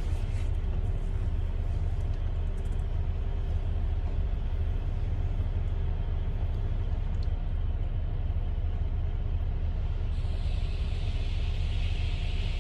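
Steady low rumble of a car driving, with a faint constant hum. A higher hiss grows louder about ten seconds in.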